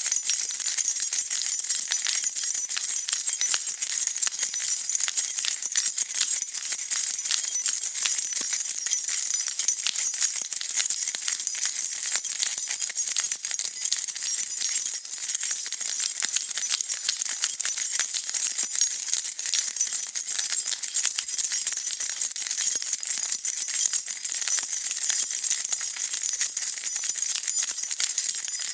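A bunch of metal keys being shaken, jingling continuously in a fast, unbroken stream of small bright clinks.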